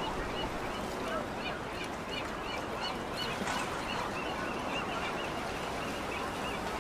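A bird calling in a long series of short, arched notes, about three a second, over steady background noise.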